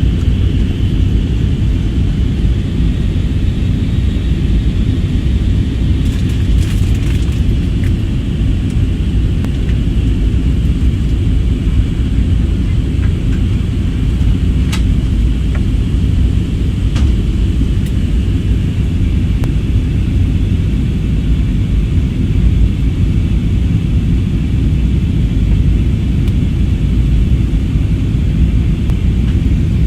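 Steady rumble of an airliner heard from inside the passenger cabin: engine and airflow noise, heavy in the low end with a faint even hiss above it.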